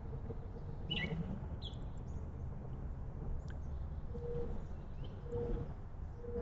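Backyard birds calling: a couple of short high chirps about a second in, then three short low notes near the end, over a steady low background rush.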